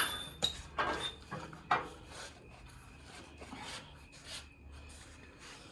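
Metal parts being handled and worked into place: a few light clinks and knocks over the first two seconds, then faint scraping and rubbing.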